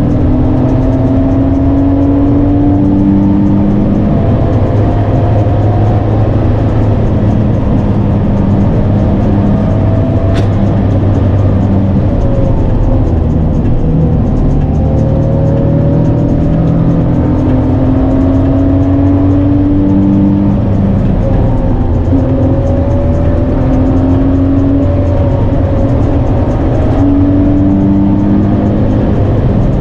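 Naturally aspirated V6 of a Nissan 350Z NISMO with a loud exhaust, heard from inside the cabin, pulling hard. The revs climb over a couple of seconds and drop back again and again.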